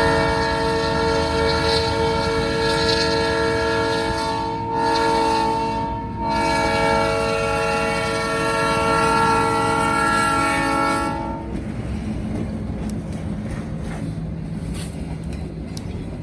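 Diesel freight locomotive's multi-chime air horn sounding two long blasts, the second ending about two thirds of the way in. Then the locomotive's engine and the train rolling by continue as a steady low rumble.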